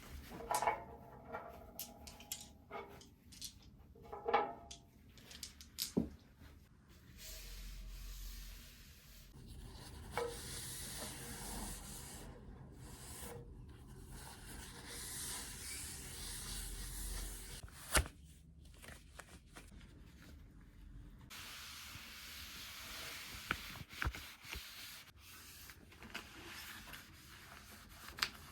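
Household cleaning sounds: a few clinks and knocks of objects being handled, then long stretches of rubbing and scrubbing, with one sharp knock about two thirds of the way through.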